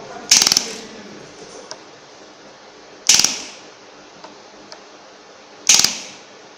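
Handheld pen laser welder firing on 2 mm steel: three short bursts about two and a half seconds apart, each a brief rapid buzz of pulses.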